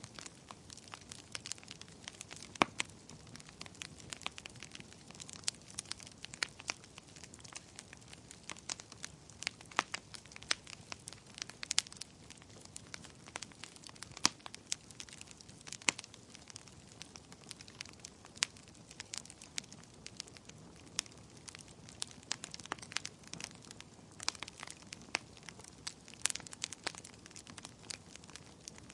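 Wood fire crackling: frequent irregular sharp pops and snaps over a soft low burning hiss.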